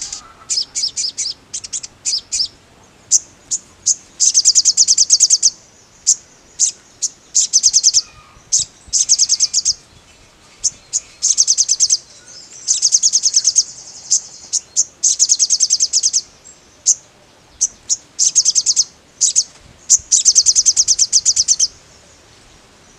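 A sogon songbird singing vigorously in high, rapid trilled phrases. Bursts of a second or two alternate with short single notes and brief pauses.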